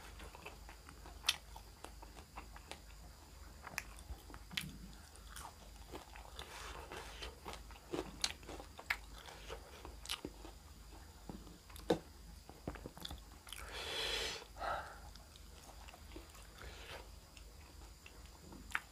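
A person chewing and crunching food close to the microphone, quiet, with sharp crunchy bites at irregular intervals and a short rush of noise about two-thirds of the way through.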